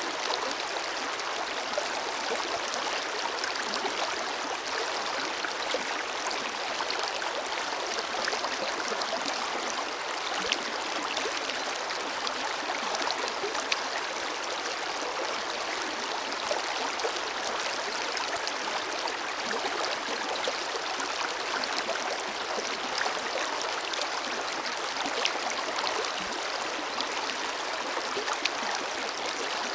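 Forest river flowing steadily over rocks: an even rush of water, with small splashes and gurgles ticking through it.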